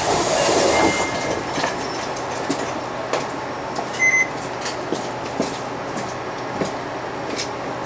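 Interior running sound of a 2006 UD (Nissan Diesel) Space Runner RA non-step city bus: a steady engine and road rumble with small rattles and knocks from the cabin. A louder rushing swell comes in the first second, and a brief high tone about four seconds in.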